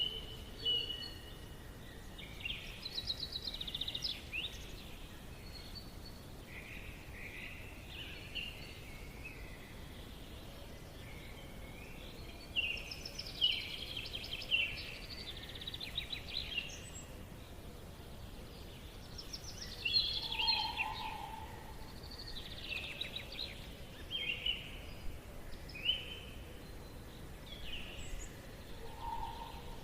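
Forest ambience: several birds singing and calling, with rapid trills and chirps one after another, over a steady faint background hiss. A lower, shorter call comes in twice, about two-thirds through and near the end.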